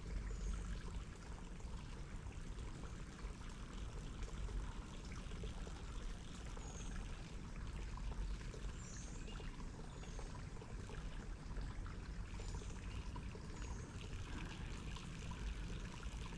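Shallow creek water trickling and rippling steadily, with a few faint high chirps scattered through it.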